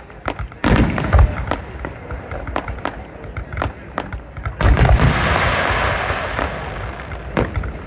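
Fireworks going off: a quick string of sharp bangs, with two heavy booms, one about a second in and one near five seconds. The second boom is followed by a couple of seconds of dense crackling.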